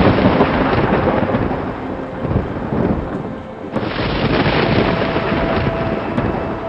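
Thunder rumbling over steady rain: a loud roll at the start that eases off, then a sudden new clap about three and a half seconds in that rolls on.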